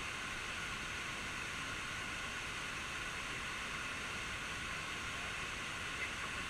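Steady rushing noise of a waterfall, an even hiss with no change in level.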